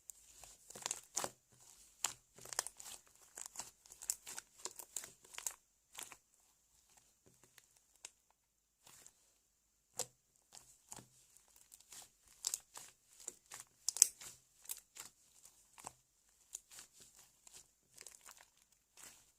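Slime being squished, poked and stretched by hand, giving a quick irregular run of small wet clicks, pops and crackles, with a sparser lull in the middle.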